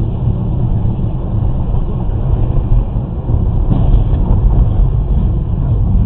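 Steady low rumble of a vehicle driving: engine and road noise, with no distinct events.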